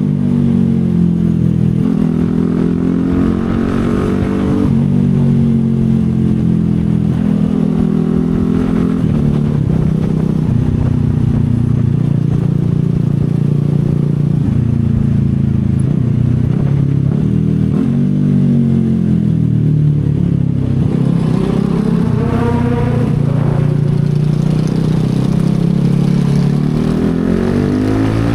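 CFMoto 250SR Lite's single-cylinder engine under way, its pitch rising as it revs up and dropping back as it shifts or eases off, several times over.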